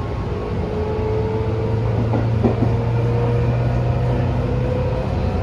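Tobu 10000-series electric train running, heard from inside the car: a steady low rumble with a motor whine rising slowly in pitch as the train gathers speed, and a single short knock about halfway through.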